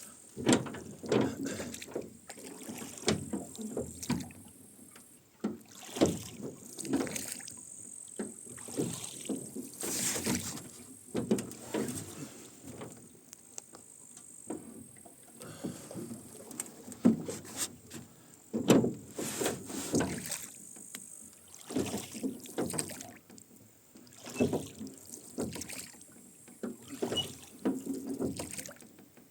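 Rowboat being rowed: the oarlocks creak and knock and the oars splash, stroke after stroke in an uneven rhythm.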